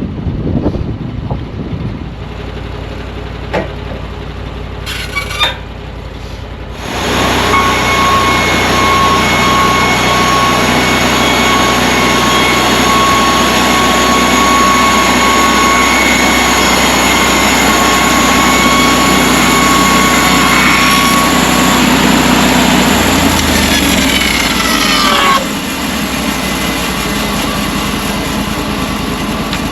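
Portable bandsaw sawmill's gas engine running, then opened up about seven seconds in: the band blade runs with a steady high whine and a loud rush of noise. Near the end the whine falls in pitch and the noise cuts off at once, leaving the engine running more quietly.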